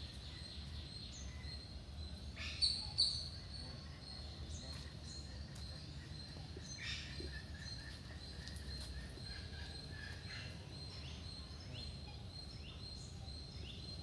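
Birds calling against a steady low hum: two sharp, loud high calls about two and a half seconds in, a smaller call near the middle, and a run of short rising chirps near the end.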